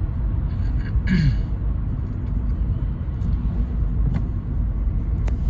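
Toyota Carina E's 1.6-litre 16-valve four-cylinder engine running under way, with steady low engine and road rumble heard inside the cabin.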